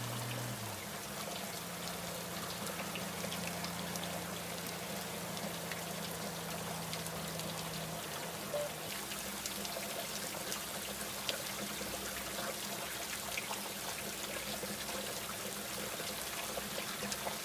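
Steady rush of rain and riding noise on a motorcycle in the rain, with a low hum under it and scattered small ticks.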